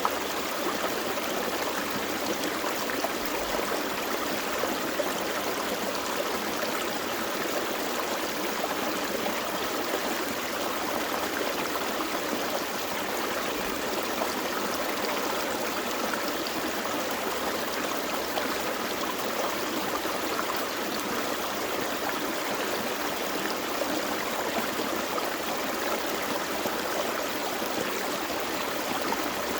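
Small forest stream flowing over rocks, a steady rush of running water with fine gurgling.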